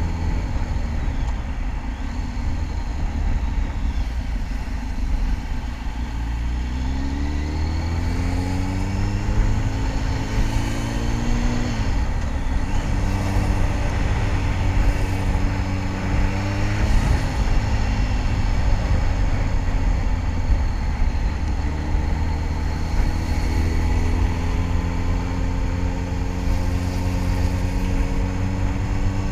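Kawasaki ZX-10R's inline-four engine running under way over a heavy, steady low rumble of wind. The engine note rises about six seconds in, drops sharply about twelve seconds in, then climbs slowly again near the end.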